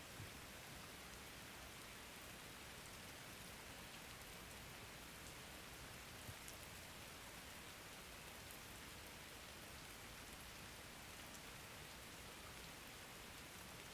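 Faint steady rain, with a few soft taps of drops standing out, one just after the start and one about six seconds in.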